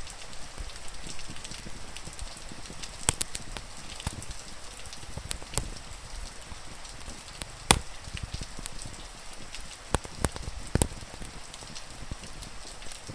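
A wood fire crackling, with sharp pops every second or so, the loudest about eight seconds in, over a steady hiss of rain.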